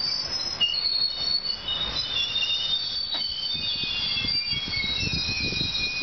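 JR Kyushu KiHa 220 single-car diesel railcar braking to a stop, with several overlapping high-pitched squeals from the train that shift in pitch.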